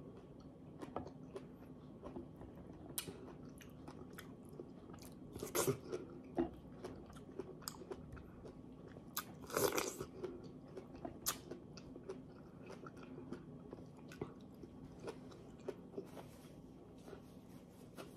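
A person eating fresh pineapple chunks close to the microphone: soft, scattered chewing and mouth clicks, with louder bites about six and ten seconds in.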